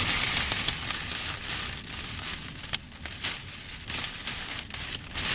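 Heavy rain pouring down onto a surface: a dense steady hiss with scattered sharp ticks of hard impacts. An uneven low rumble of strong wind runs underneath.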